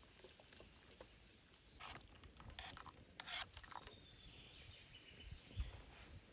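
Quiet outdoor ambience with a short burst of rustling and clicking, like something being handled, about two seconds in, a faint falling whistle after it, and a soft low thud near the end.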